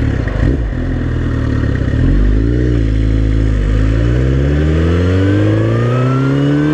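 Suzuki GSX-R sport bike's engine pulling away from low revs: the pitch holds for about two seconds, rises briefly and dips, then climbs steadily under acceleration to the end.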